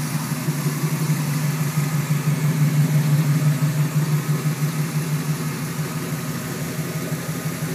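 Rebuilt Oldsmobile 455 V8, breathing through Hooker headers and a dual 3-inch Magnaflow exhaust, idling steadily.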